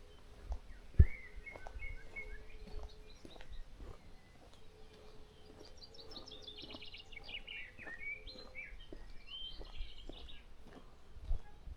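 Wild birds singing and chirping, with a quick run of notes falling in pitch in the middle and more short calls after it. A single sharp low thump about a second in, and a faint steady low hum underneath.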